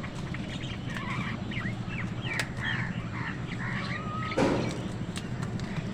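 Crows cawing amid smaller birds chirping, with many short calls overlapping; one loud harsh call about four and a half seconds in stands out. A low steady hum runs underneath.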